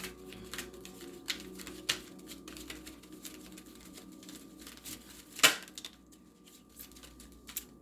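A deck of oracle cards being shuffled by hand: a run of light card clicks and flicks, with one sharper slap about five and a half seconds in.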